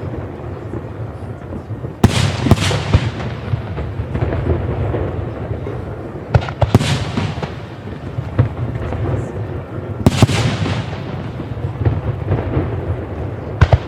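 Aerial fireworks display: a series of loud shell bursts, each followed by a crackling tail, over a continuous rumble of other shells. The biggest bursts come about two, six and ten seconds in, with sharp reports near the end.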